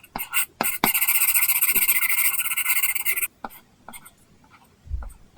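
Apple Pencil tip scratching across a paper-texture screen protector on an iPad, in quick back-and-forth strokes after a few short taps. The scratching stops about three seconds in, leaving a few light taps and a soft low thump near the end.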